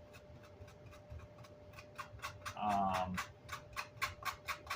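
Rhythmic scratchy strokes on Vox AC30 grill cloth as it is scrubbed clean, about four or five strokes a second, starting about three seconds in. A brief wordless hum comes just before the strokes, with a faint steady whine underneath.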